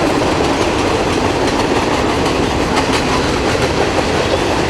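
Freight cars of a passing freight train rolling by at close range: steady wheel-and-rail rumble with the clickety-clack of wheels over rail joints.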